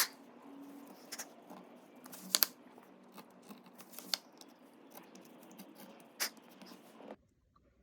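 Hand carving tools working wood in relief carving: sharp ticks and clicks of the blade every second or so over a low scraping of shavings, stopping abruptly near the end.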